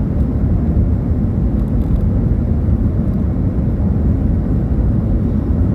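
Steady low rumble of jet engine and air noise inside an airliner cabin, even and unchanging.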